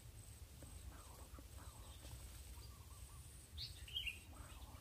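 Faint outdoor ambience with a low steady rumble. A few short, high bird chirps come about three and a half to four seconds in.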